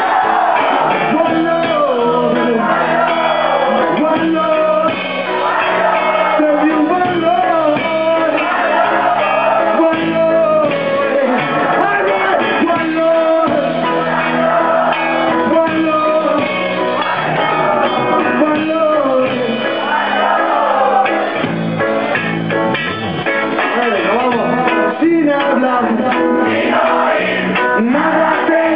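Live reggae band playing, with guitar and a bending melodic line over steady bass and drums, heard in a bar with a dull, muffled top end.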